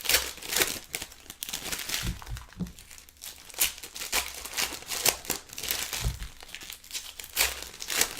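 Basketball trading-card pack wrappers crinkling and tearing as packs are opened, a run of irregular sharp crackles.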